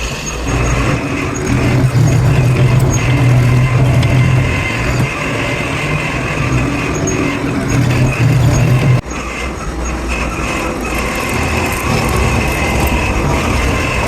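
Heavy workshop machinery running: a loud, steady noisy din with a low hum that breaks off abruptly about nine seconds in, then carries on without the hum.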